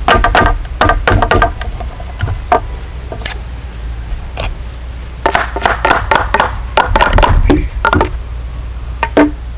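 Bursts of rapid knocks and taps, as of wood being struck or worked with a hand tool, over a steady low hum.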